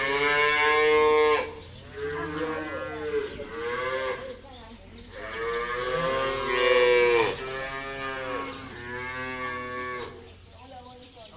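Cattle mooing: about five long calls in a row, each lasting one to two seconds, with short pauses between them.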